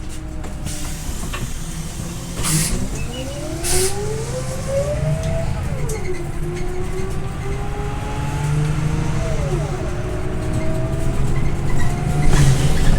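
Scania OmniLink I city bus heard from inside while accelerating: its diesel engine and driveline whine rise in pitch, then fall with a gear change about six seconds in and again near ten seconds. A few short hisses cut in over the rumble.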